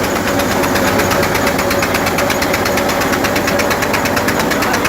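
Tractor's diesel engine running steadily under load, driving an atta chakki flour mill, with a fast even beat.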